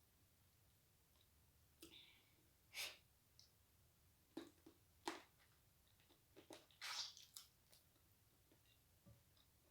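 Close-up eating sounds: short bursts of chewing and sucking on chicken feet, a handful of them between about two and seven and a half seconds in.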